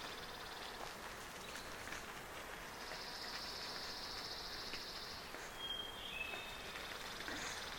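Outdoor background in which an insect trills rapidly at a high pitch for about two seconds. A few short, high bird whistles follow, and another insect trill starts near the end.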